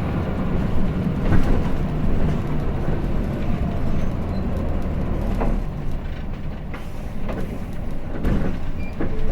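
Hino Blue Ribbon City bus's diesel engine and drivetrain running under way, heard from inside the cabin, with steady low rumble and road noise and a few faint rattles.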